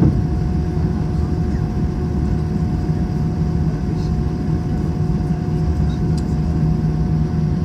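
Steady cabin noise inside an Airbus A321 airliner: a low engine and airflow rumble under a few constant hum tones, with no change in level.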